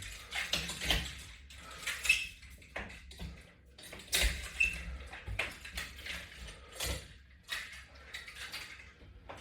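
Latch bar exercise hardware and resistance bands rattling and creaking irregularly with each pull of the repetitions, with two short high squeaks about two and four and a half seconds in.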